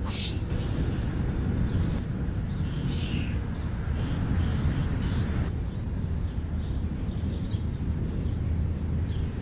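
Scattered short bird chirps and calls over a steady low rumble, with a brief burst of noise right at the start.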